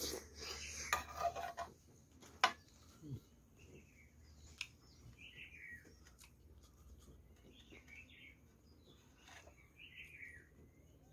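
A bird chirping in the background, short falling calls every second or two. Handling clatter in the first two seconds and a sharp click about two and a half seconds in.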